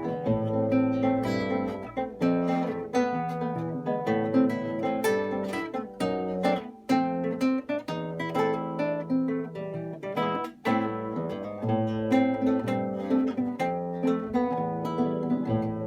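Background music: a duet of plucked string instruments, guitar-like, playing a lively tune with picked bass notes under a melody.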